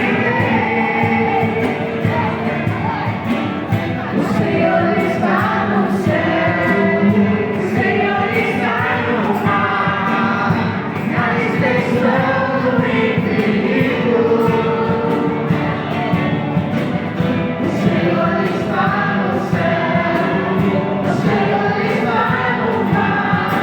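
Devotional song: a choir singing over instrumental accompaniment with a steady beat.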